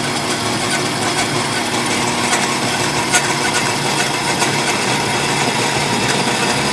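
Power saw running steadily as it cuts through a piece of steel: a constant machine noise with a few faint clicks.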